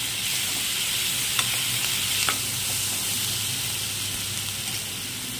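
Onion-tomato masala sizzling steadily as it fries in oil in a nonstick pan, stirred with a steel spoon that clicks lightly against the pan twice. The masala is cooked down to the point where the oil separates.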